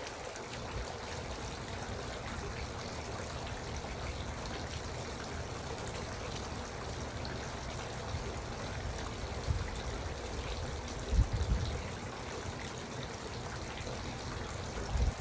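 Garden water fountain trickling and splashing steadily, with a few brief low rumbles, the strongest about two-thirds of the way through.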